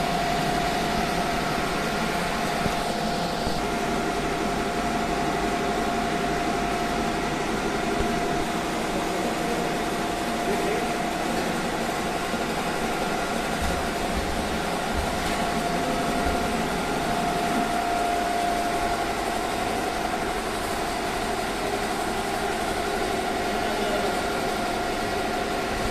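Richpeace computerized embroidery machine running steadily as it stitches, a constant mechanical sound with a held whine.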